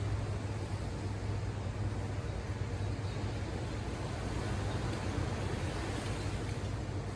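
Ocean surf washing ashore as a steady hiss that swells about five to six seconds in, over a steady low rumble.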